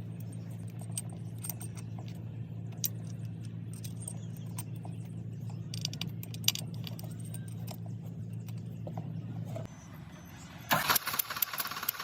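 Steady low hum with scattered metallic clicks of tool work, then near the end a diesel engine, the Eicher VDX-8 with its injectors just fitted, starts and runs with a fast, loud rhythmic clatter.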